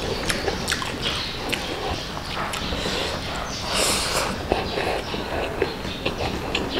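Close-miked eating sounds of a man chewing biryani by hand: wet chewing with frequent sharp lip smacks and clicks. A louder burst comes about four seconds in as a handful of rice and chicken goes into his mouth.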